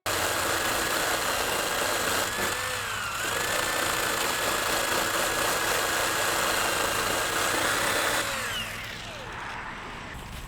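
Dremel rotary tool sanding rust and filler off a car's roof panel, a steady high whine that sags briefly under load about three seconds in, then winds down near the end.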